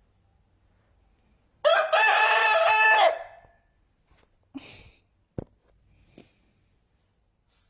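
A rooster crowing once, a single held call of about a second and a half starting about one and a half seconds in, followed by a couple of faint knocks.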